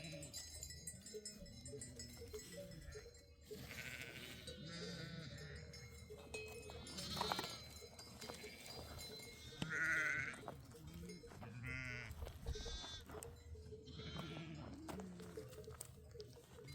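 A flock of sheep bleating, many calls overlapping one after another, with louder, higher calls about seven and ten seconds in.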